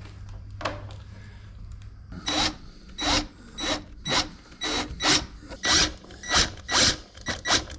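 Wooden beehive parts being worked by hand: a run of about ten short scraping rubs of wood on wood, roughly two a second, starting about two seconds in.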